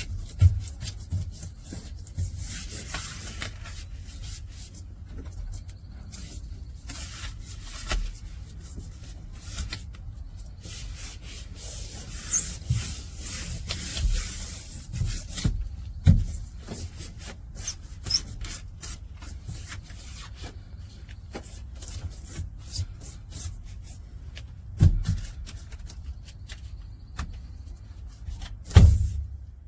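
Rubbing and scraping handling sounds, with many small clicks, stretches of hissy scraping, and a few louder knocks, the loudest near the end.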